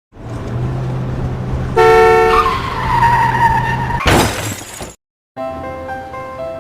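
A car sound-effect sequence: an engine hum, a horn blast, a tyre screech and a crash with shattering, cut off abruptly. After a brief silence, gentle piano music begins near the end.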